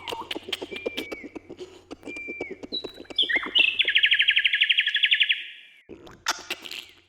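Wild birds singing in a forest at dawn: short, falling chirps over a rapid ticking, then a loud, fast trill lasting nearly two seconds in the middle.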